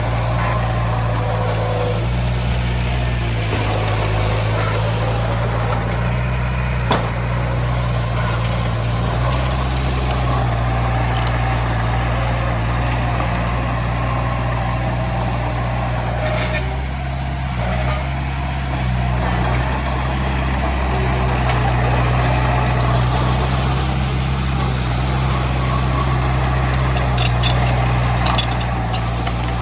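Heavy diesel construction machinery running steadily, its low engine note shifting slightly now and then. There is a sharp knock about seven seconds in and a run of light metallic clicks near the end.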